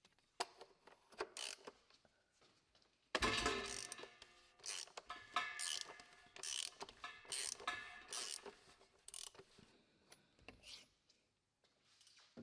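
Ratchet wrench with a 32 mm socket clicking through repeated back-and-forth strokes, turning the oil filter housing cap. A few scattered clicks come first, the steady ratcheting starts about three seconds in, and it thins to odd clicks near the end.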